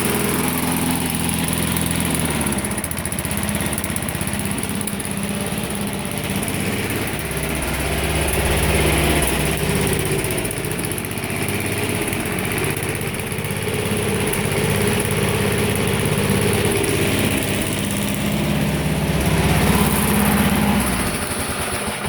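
1980s lawn mower's Tecumseh small engine running, its speed wavering a few times, then shutting off at the very end. The engine runs not that bad but still needs cleaning up.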